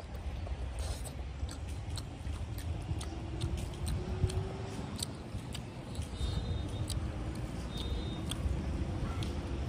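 Close-up chewing and lip-smacking of a person eating a rice meal by hand, many short wet clicks from the mouth throughout, over a steady low rumble.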